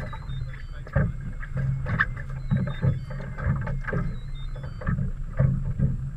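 A boat's low, steady engine hum with irregular knocks and thumps against the hull, and a faint stepping electronic chirp repeating about every two seconds.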